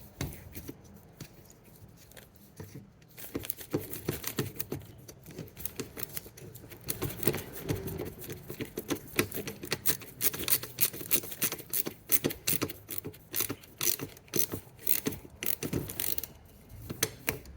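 Rapid small clicks, taps and scrapes of hands working wires and metal and plastic parts at a dishwasher's electrical connection box, starting about three seconds in and stopping shortly before the end.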